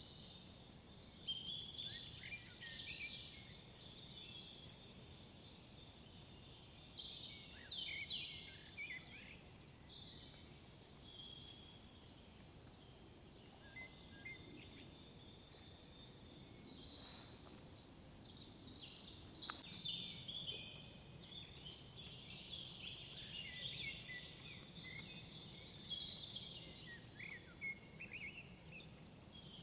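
Several songbirds singing in woodland, their songs overlapping, with high thin trills repeating every few seconds among shorter chirping phrases.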